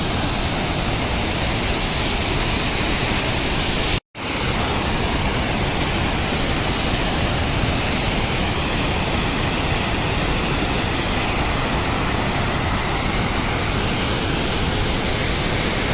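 Waterfall's rushing water: a steady, dense noise that cuts out completely for a moment about four seconds in.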